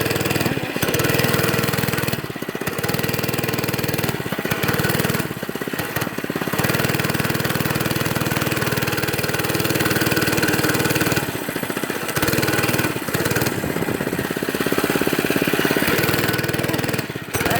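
Motorcycle engine running steadily, with its sound dropping off briefly several times, as when the throttle is eased.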